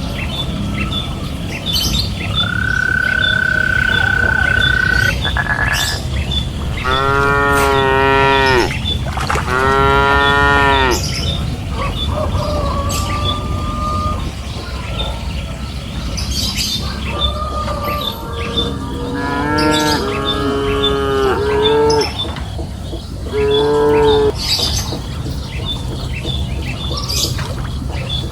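Cattle mooing repeatedly: several long, drawn-out moos in two clusters, with pauses between them.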